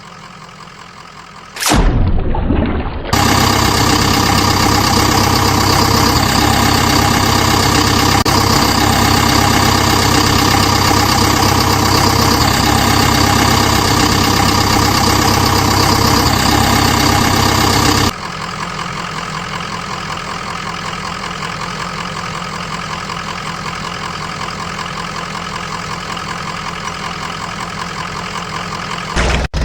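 Truck engine idling steadily, heard as edited clips that cut in and out abruptly: quieter at first, loud from about three seconds in until just past halfway, then a quieter steady stretch.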